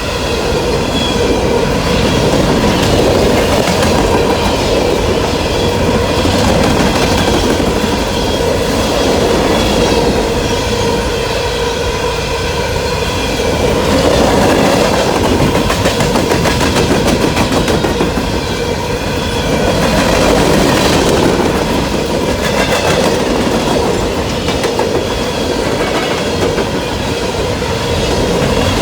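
Freight train passing close by at speed: steady rumble of cars with wheels clacking over the rail joints and a steady ringing whine from the wheels on the rails.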